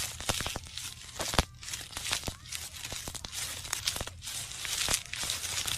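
Plastic bags being crinkled and torn, a dense run of irregular crackles.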